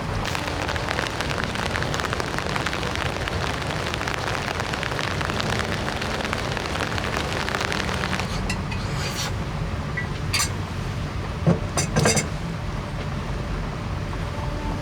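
Heavy rain falling in a dense patter over a steady low rumble, thinning after about eight seconds. Several sharp knocks and clicks come near the end, the loudest two about eleven and a half and twelve seconds in.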